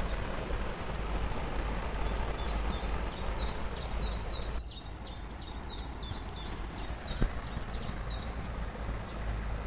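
Steady rush of a waterfall, with a songbird repeating short high falling notes, about three a second, from about three seconds in until about eight seconds in. A single brief click comes near the end of the song.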